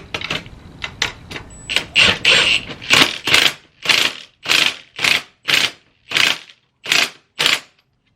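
Ratchet wrench being worked back and forth in quick strokes, tightening down a fastener on the reassembled pit bike wheel. Its clicking strokes come about twice a second, after a few scattered metal clicks, and space out slightly near the end.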